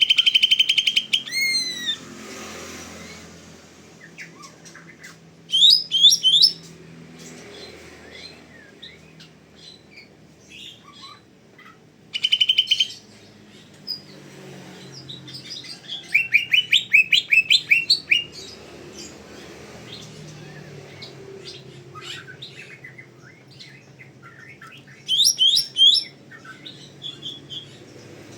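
Cucak ijo (green leafbird) in full song: about five loud bursts of rapid, sharp whistled notes and fast trills, a few seconds apart. Fainter chirping and a low steady hum fill the gaps between them.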